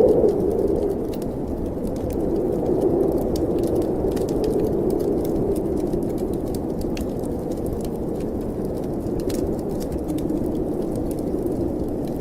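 Snowstorm wind blowing in slow swells, with the scattered small crackles and pops of a wood fire in a fireplace.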